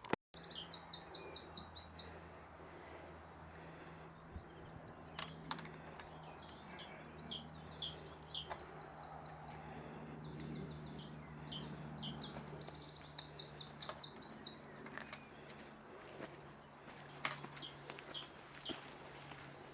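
Songbirds singing, with many fast trills and runs of rapidly repeated high notes, and a few sharp clicks.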